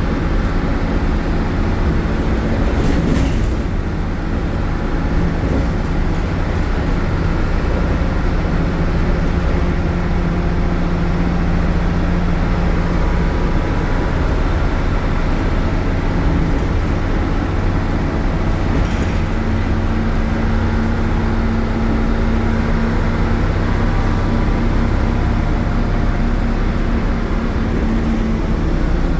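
MAN Lion's City bus's Euro 4 diesel engine, driving through a ZF gearbox, running loud and steady with its note shifting in pitch a few times as engine speed changes. Two short knocks, one about three seconds in and one near the middle.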